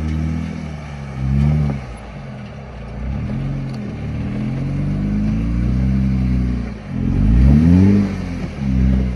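Off-road vehicle's engine revving up and down in repeated swells under load while it crawls up the rocks of a dry waterfall, with a sharp rise in revs about seven seconds in.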